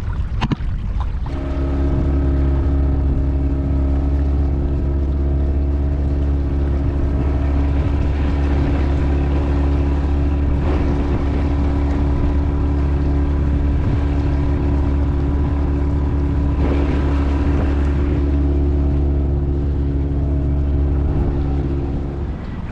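A boat's motor running steadily, starting up about a second in and cutting out near the end as it stalls.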